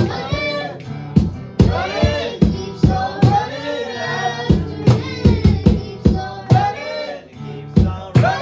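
Worship band playing a song: singing voices over drums and bass, with drum hits about twice a second.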